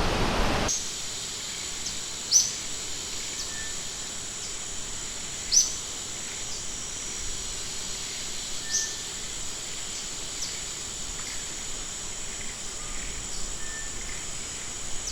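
Rushing river water that cuts off abruptly under a second in, giving way to a steady high-pitched insect drone. Over the drone a bird gives a short, sharp falling call about every three seconds, with fainter chirps between.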